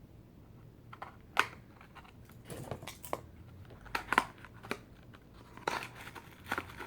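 Fireworks packaging being handled: scattered clicks, taps and crinkling, the sharpest taps about a second and a half in and around four seconds in.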